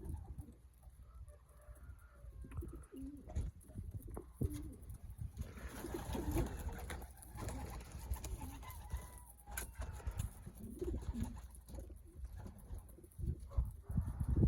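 Racing pigeons cooing, short low coos on and off, over a low steady rumble.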